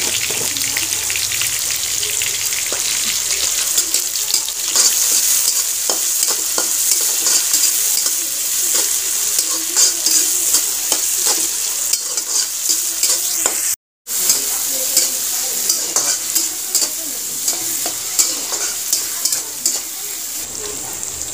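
Chopped onions and tomatoes sizzling in hot oil in a kadhai, with a metal spatula scraping and clicking against the pan as it stirs. The sound cuts out for a moment about two-thirds of the way through, then the sizzling and stirring go on.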